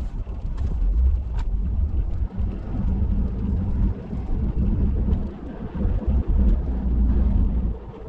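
Plow truck running, a low, uneven rumble, with two light clicks in the first second and a half.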